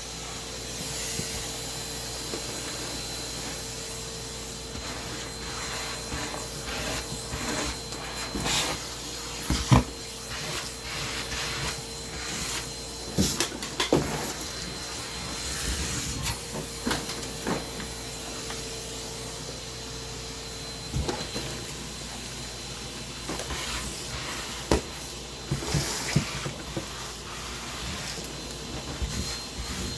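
Household vacuum cleaner running, with scattered knocks and clatter of objects being handled.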